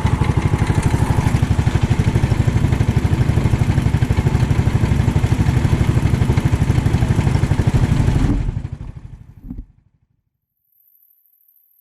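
Single-cylinder 390cc kart engine running steadily under throttle, with an even pulsing beat. A little past two-thirds of the way in, the sound fades away over about a second and a half and drops out to near silence, the sign of a dropout in the audio recording.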